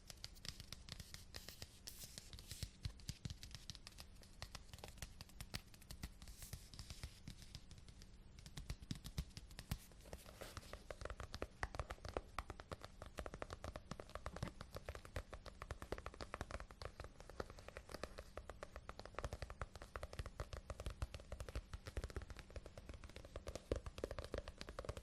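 Close-miked, dense crackling and scratching from an object being handled or rubbed, a fast stream of tiny clicks. The texture turns lower and fuller about ten seconds in.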